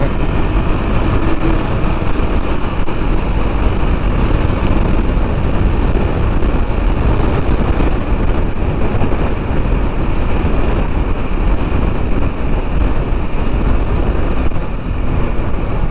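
Steady wind rush on a helmet or bike-mounted microphone while riding, mixed with the running noise of a KTM 390 Duke's single-cylinder engine and its tyres on the road.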